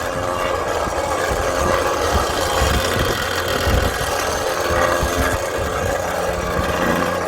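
Radio-controlled construction machinery running, giving a steady engine-like drone with a low hum.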